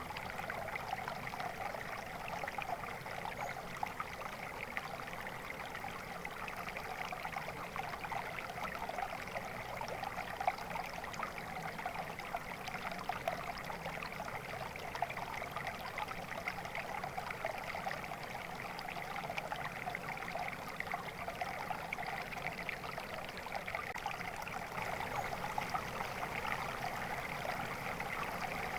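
Steady flowing water: a stream babbling and trickling over rocks, with a constant busy splashing that stays at one level.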